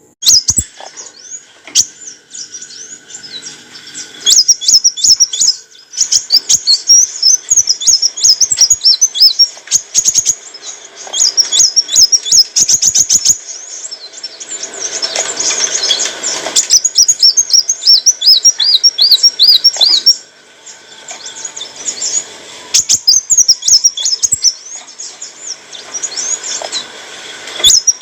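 Kolibri wulung sunbird singing a rapid, high-pitched chattering song of quick sweeping notes and trills, with a couple of short pauses.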